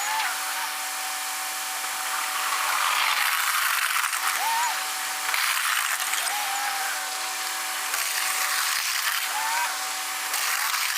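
A machine running with a steady whine and a hiss that swells and fades every few seconds, with short tones sliding up and down.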